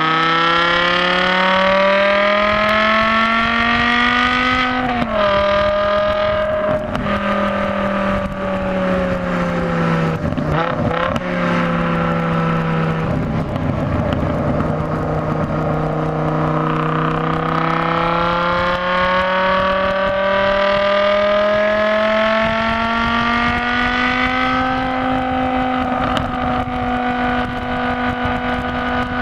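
BMW M6 engine pulling hard on a track lap. The revs climb for about five seconds, ease off and fall slowly into a bend, with a few sharp clicks around ten seconds in, then climb again and hold steady near the end.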